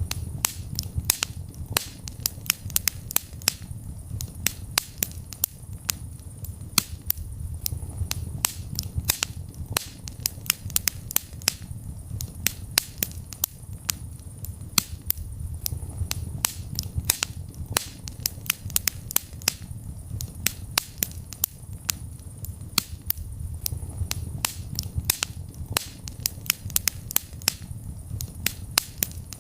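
Wood fire crackling in a fireplace: many sharp, irregular pops and snaps, several a second, over a steady low rumble of burning.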